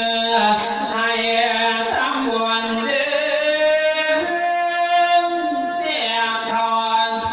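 Isan thet lae sung sermon: a single voice holding long, drawn-out melismatic notes that waver and step between pitches.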